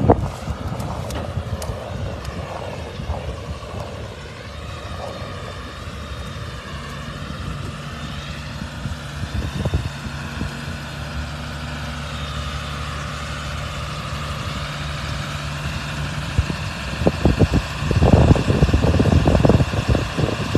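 Vehicle engine idling steadily, with wind buffeting the microphone in gusts near the end.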